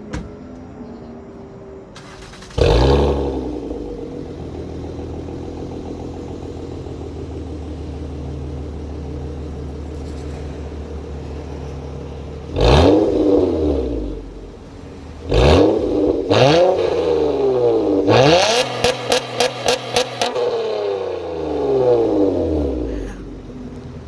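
2008 Honda Accord's stock J35 V6 through a Borla XS street muffler, with resonators removed and the third catalytic converter deleted. It starts about two and a half seconds in and settles to a steady idle. It is then revved several times, each rev rising and falling back to idle. In one rev it is held high with a rapid stutter.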